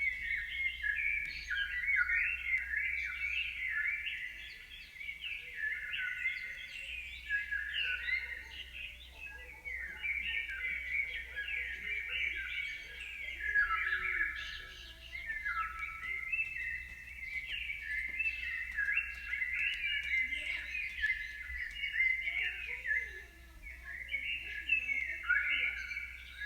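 Many birds chirping and twittering continuously, their quick overlapping chirps filling the whole stretch.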